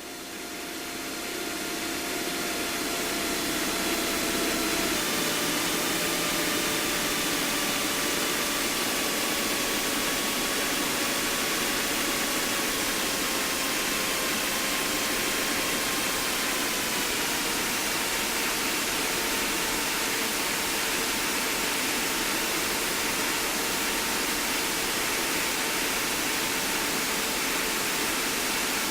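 Cessna 152's engine and propeller heard in the cabin under a loud rush of airflow hiss, the engine tone dropping in pitch in two steps as power is brought back on the approach to land.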